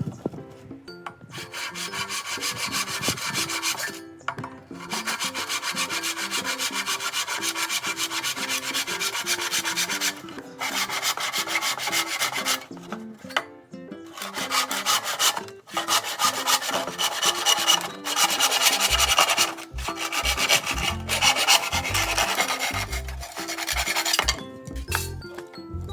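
Rapid rasping strokes on bamboo wood, such as scraping or filing a bamboo skewer into shape, coming in runs of a few seconds with brief pauses. Faint background music plays underneath.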